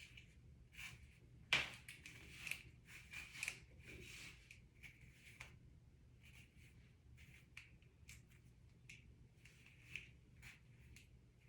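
Faint handling sounds of hands working on hair and a wig: short rustles and small clicks, the loudest a sharp click about one and a half seconds in.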